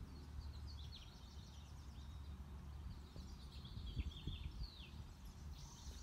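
Small wild birds chirping faintly, a string of short high notes and quick down-slurred calls, over a low steady outdoor rumble.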